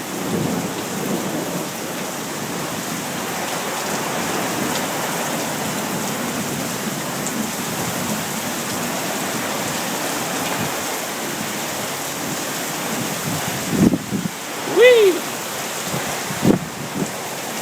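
Heavy rain falling steadily on outdoor surfaces. Near the end come a couple of short low thuds and one brief pitched sound that rises and falls.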